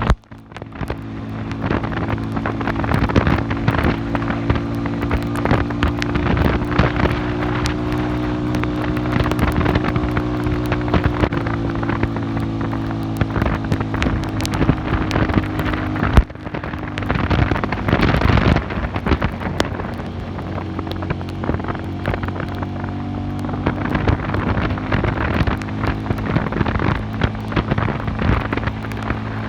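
Classic Earl 150 cafe racer motorcycle engine running steadily while riding, with heavy wind noise on the microphone. The sound drops out briefly just after the start and again about halfway through.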